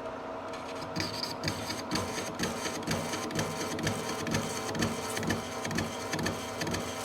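Lathe carbide insert taking a hand-fed interrupted cut through the rough plasma-cut edge of a steel plate. The tool knocks in an even rhythm of about two to three strikes a second over the lathe's steady running hum, starting about a second in.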